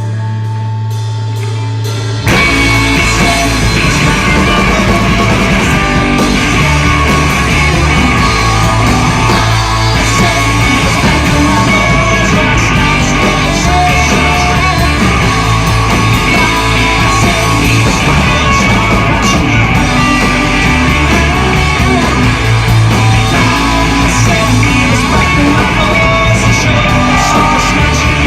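Live rock band playing loud with drums and electric guitars. A held low note sounds quietly at first, and the full band comes in hard about two seconds in.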